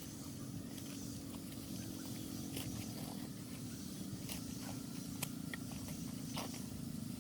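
Steady low mechanical hum with scattered light clicks and taps.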